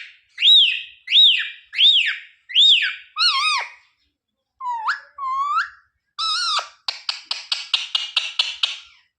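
Indian ringneck parrot calling: five loud rising-and-falling whistled notes in quick succession, a short pause, two upward-sweeping notes, then a fast chatter of about a dozen short notes near the end.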